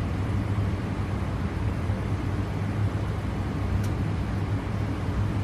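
Steady flight-deck background noise of a Boeing 787 on final approach: a constant low hum under an even rush of noise, with one faint click near the end.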